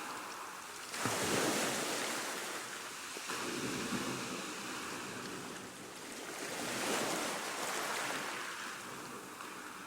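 Ocean surf: waves breaking and washing in a steady rush of noise, swelling about a second in and again around seven seconds in.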